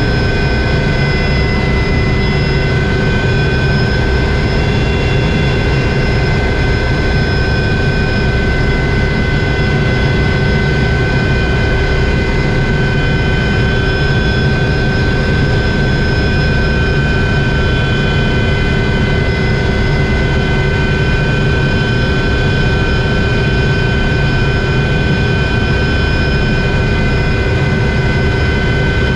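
Helicopter engine and rotor running steadily at a constant level, a low rumble under a steady high-pitched whine.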